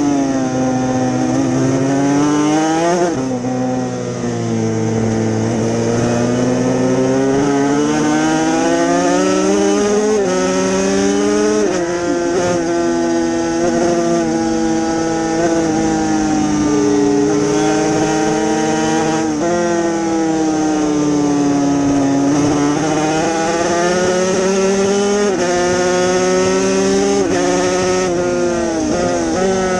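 Yamaha TZ250 two-stroke twin racing motorcycle engine at full race pace. Its pitch climbs steadily and then drops sharply several times, as it is revved out through the gears and shifted or the throttle is closed.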